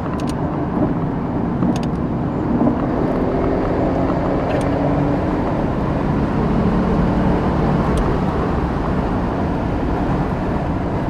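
Porsche 911 Turbo with a Tubi-style exhaust running at speed, its engine note steady under road and wind noise.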